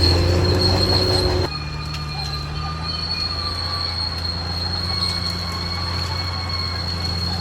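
Caterpillar D6R XL bulldozer's diesel engine working hard, its pitch rising slightly, then dropping to a lower steady run about a second and a half in. A steady high squeal runs over it throughout.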